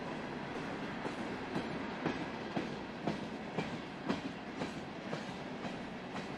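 Freight train's hopper cars rolling past, a steady rumble with the wheels clicking over a rail joint about twice a second.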